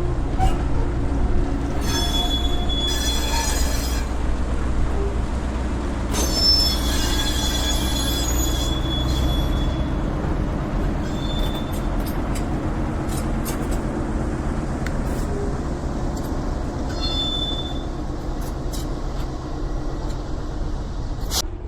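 A train running on the line over a steady low rumble, its wheels squealing against the rails several times, in spells of a second to a few seconds.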